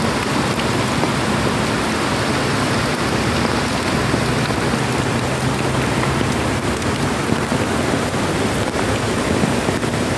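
Heavy rain falling steadily, a dense even hiss, with a low hum underneath.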